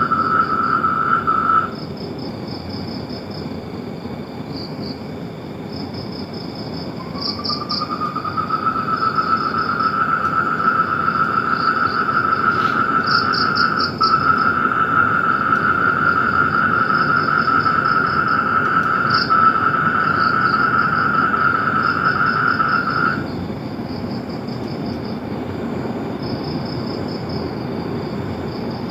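Frogs and insects calling: a long, steady trill, one brief at the start and another that slides up in pitch as it begins about seven seconds in and runs for about fifteen seconds before stopping, over repeated high chirping.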